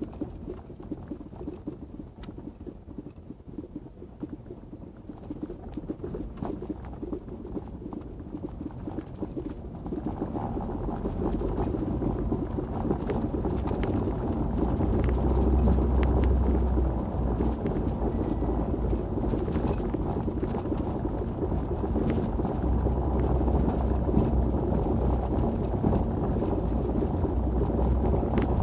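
Volkswagen Golf 7's rear suspension knocking while driving over cobblestones: a rapid, irregular clatter of knocks over low tyre rumble, growing louder about ten seconds in. The knock is the suspension fault under investigation.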